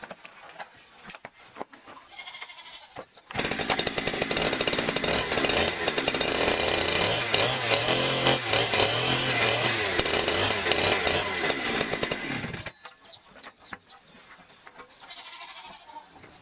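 A loud motor-driven tool runs for about nine seconds, starting suddenly a few seconds in and cutting off shortly before the end, its pitch wavering up and down while it runs.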